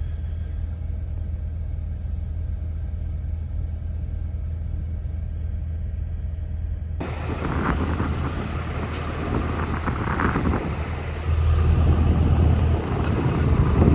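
A heavy diesel truck engine running with a steady low rumble while the stuck, empty semi is pulled out of the snow. About halfway through, a wider rush of noise joins the rumble, and it gets louder near the end.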